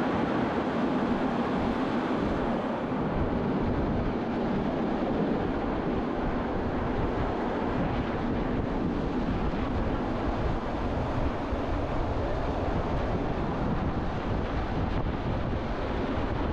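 Steady rumble and rush of a train running, heard from an open observation carriage, with wind buffeting the microphone.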